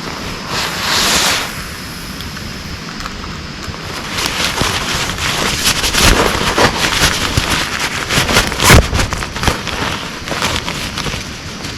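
Heavy rain falling, a steady hiss thick with irregular drop impacts that get heavier and denser from about four seconds in.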